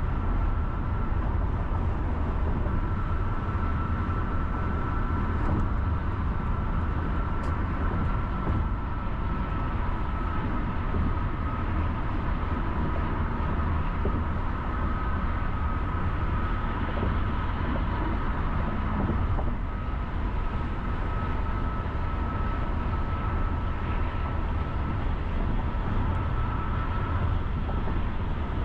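Car driving along city roads: a steady low rumble of road and engine noise, with a faint steady high tone running through it.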